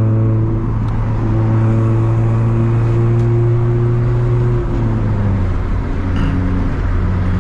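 1999 Honda Civic 1.6 LX's four-cylinder engine and exhaust droning steadily at highway cruise, around 2,000-odd rpm, heard from inside the cabin; the muffler has blown out and is hollow, which opens up the exhaust note. The pitch drops slightly a little past halfway.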